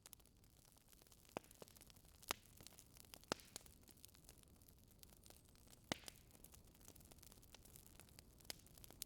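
Faint crackling of a wood fire in a fireplace: scattered sharp pops and snaps over a soft, steady hiss.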